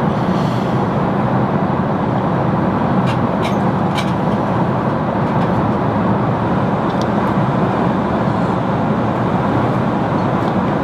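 Steady in-flight airliner cabin noise, the even rush of engines and air around the cabin. A few faint light clicks come about three to four seconds in.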